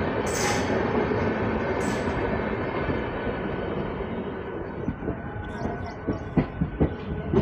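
An MMTS electric local train running, heard from its open doorway: a steady rush of wheels and wind, louder in the first few seconds while an express train's coaches pass on the next track. Near the end come a few sharp clacks as the wheels cross rail joints.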